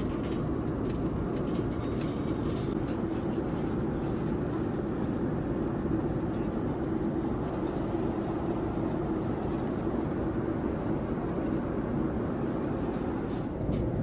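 Steady in-flight cabin noise of a Boeing 787-9 airliner: a constant rush of air and engine drone with an even low hum, and a few light clicks near the end.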